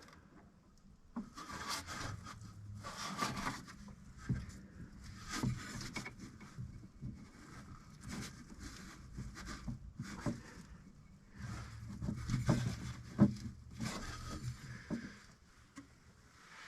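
Hand-work handling noise: irregular rubbing and scraping with scattered light knocks and clicks, as parts and tools are handled.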